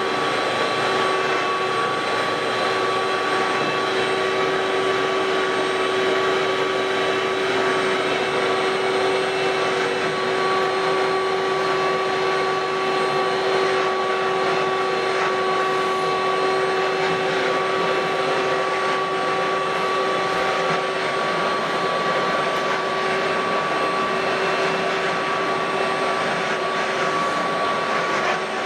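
Ridgid WD1450 wet/dry shop vacuum running steadily, with a constant whine over a rushing airflow sound.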